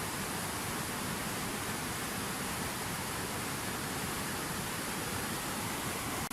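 Water falling from a fountain waterfall, splashing in a steady, dense rush. There is a brief dropout at the very end.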